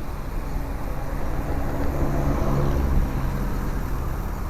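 Wind rumbling on an action camera's microphone during a bicycle ride, mixed with road traffic; a motor vehicle's engine hum rises in the middle.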